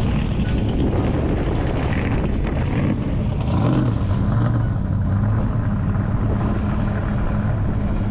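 A car engine running while driving, its low drone holding steady from about halfway through.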